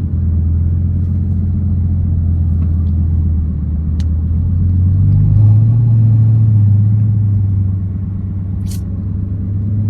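Car engine running with a low, steady rumble that rises a little in pitch about five seconds in and eases back down near the end.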